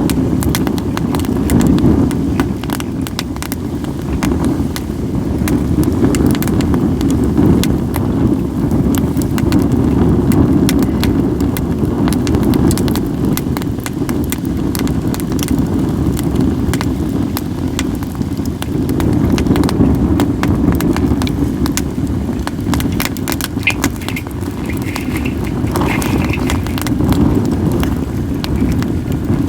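Wood fire of acacia and other firewood crackling, with many sharp pops and snaps scattered through. A steady low wind rumble on the microphone runs underneath.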